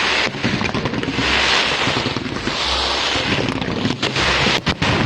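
Wind buffeting the microphone in a loud, rumbling rush, over the continuous noise of a fireworks display, with a few sharp cracks near the end.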